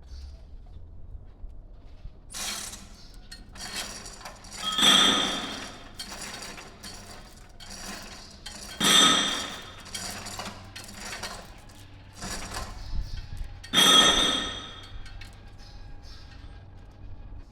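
Metal being struck: four loud blows and a few lighter ones, several seconds apart, each ringing out for about a second at the same clear pitches, over a low steady hum.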